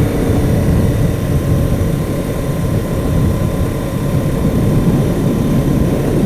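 Motorcycle engine running steadily with wind rushing over the microphone while riding at speed.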